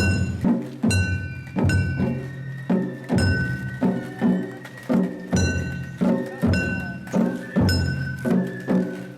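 Festival-float hayashi music: taiko drums and ringing metal hand gongs or cymbals struck in a steady beat, about two strikes a second.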